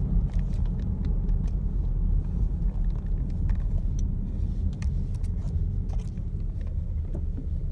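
Steady low road and engine rumble inside a moving car's cabin, with scattered light clicks and rattles.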